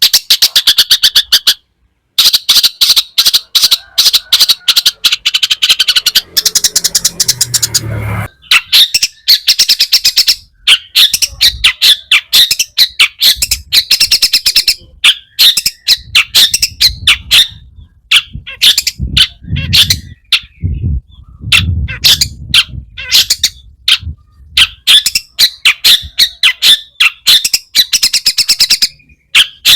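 Long-tailed shrike (cendet) singing loudly: fast chattering runs of short, sharp repeated notes broken by brief pauses, a song filled with mimicked phrases of other birds. A low rumble sits under the song a few times.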